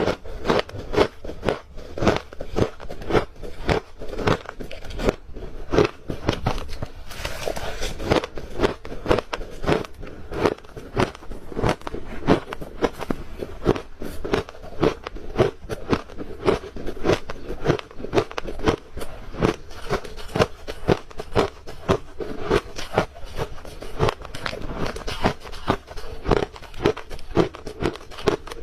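Close-up crunching of ice cubes being bitten and chewed, a steady stream of sharp cracks several times a second.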